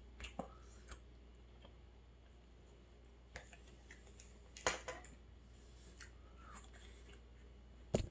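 Wet mouth sounds of someone chewing and swallowing an oyster: scattered sharp clicks and smacks over a faint hum, loudest about halfway through and again at the end.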